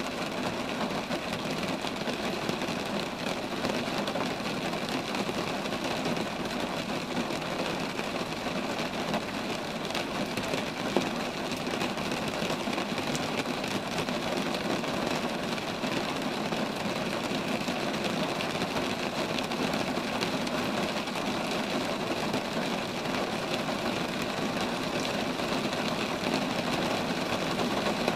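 Steady rain falling on a tree-lined street: an even hiss with a faint steady hum underneath and one louder tick about eleven seconds in.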